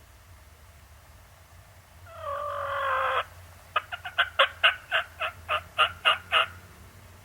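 Turkey yelping: one raspy, drawn-out note that falls in pitch, then a run of about a dozen short yelps at three to four a second.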